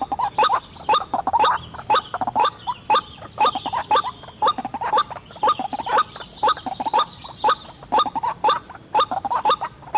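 White-breasted waterhen calling: a long, unbroken run of short, harsh notes repeated two or three times a second.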